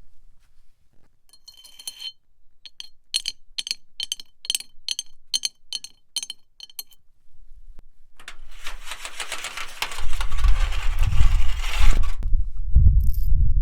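Nails worn on the fingertips tapping a flower pot, about three sharp taps a second, each with a short ring. Then the nails scrape across a thin plate, a rough scraping that turns into a loud deep rumble near the end.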